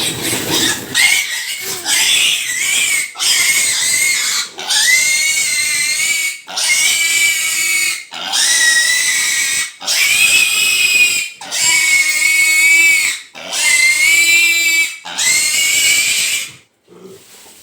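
A piglet screaming in a string of about a dozen long, loud, high-pitched squeals, each a second or two long with a short breath between. This is the distress squeal of a piglet being held for a vitamin B complex injection.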